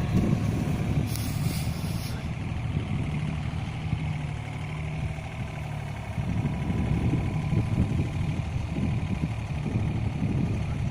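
Yanmar ViO35-3 mini excavator's diesel engine running with a steady low note, with a short hiss about a second in. About six seconds in, the engine sound turns rougher and uneven.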